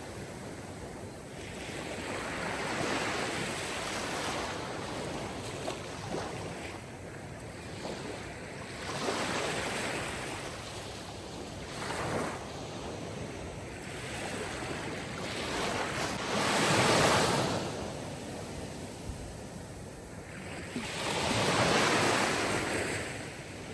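Sea waves breaking and washing on a shore, swelling and fading every few seconds, with the strongest swells near the end.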